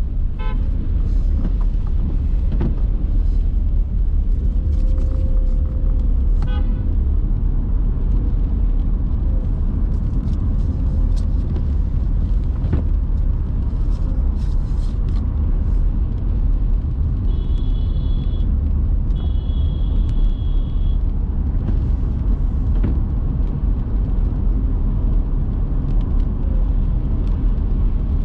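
Steady low rumble of a car driving in city traffic, with two car-horn honks about two-thirds of the way through, each a second or two long.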